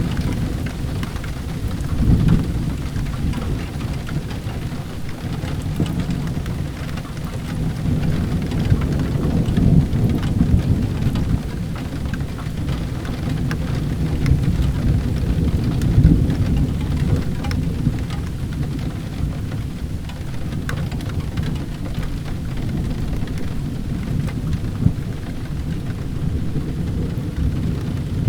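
Steady rain with a continuous low rumble of thunder that swells now and then, and scattered sharp crackles of a wood fire burning in a fireplace.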